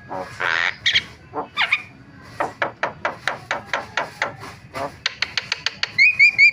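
Javan myna (jalak kebo) calling: a harsh rasp about half a second in, then a fast run of sharp clicking chatter, and a string of short rising whistled notes near the end.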